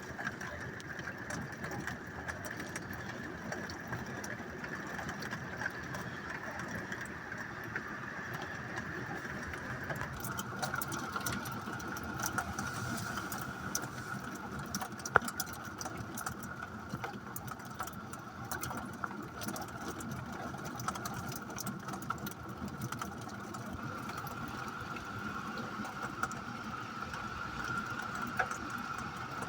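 Rain ticking steadily over a constant mechanical hum, whose pitch steps down about ten seconds in; the ticks grow denser after that, with one sharper tick about halfway through.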